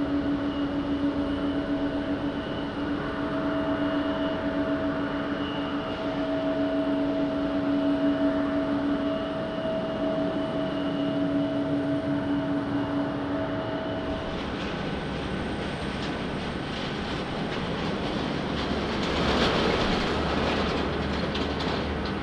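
Jet airliner engines: a steady hum with two held tones for the first fourteen seconds or so, then a rushing noise that swells to a peak around twenty seconds in as an aircraft passes.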